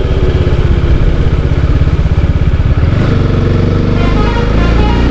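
TVS Apache RR 310's single-cylinder engine running under the rider, then climbing in pitch as it accelerates about three seconds in.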